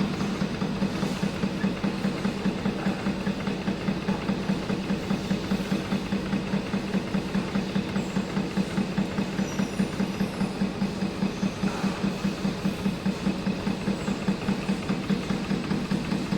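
High-speed expanded metal machine running, its punching-and-shearing ram striking the sheet metal in a fast, even rhythm over a steady machine hum, slitting and stretching the sheet into diamond mesh.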